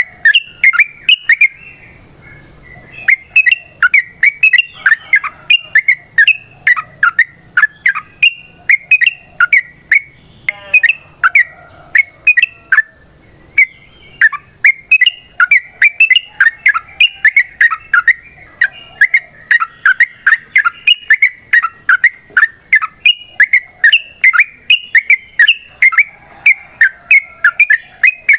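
Yellow-vented bulbul (trucukan) singing a long, fast run of bubbly chirping notes, several a second, with a brief pause about two seconds in. A faint steady high whine runs underneath.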